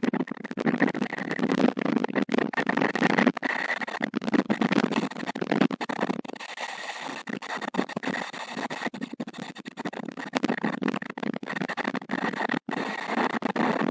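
Wind buffeting the microphone of an outdoor stork-nest camera: a rushing, uneven noise with frequent brief dropouts.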